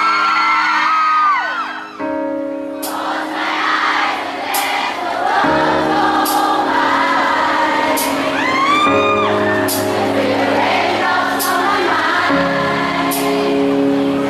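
Live song intro played over a venue sound system: sustained keyboard chords changing every few seconds with a soft beat, and fans' high screams rising over it twice.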